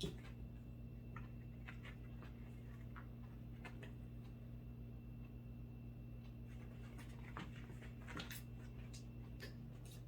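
Light, irregular clicks and taps of a six-month-old cat's paws and claws as it plays, with a louder tap at the very start and a cluster about eight seconds in, over a steady low hum.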